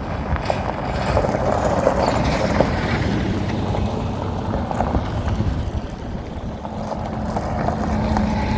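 A motor vehicle's engine running close by: a continuous low rumble, with a steady hum coming in during the second half.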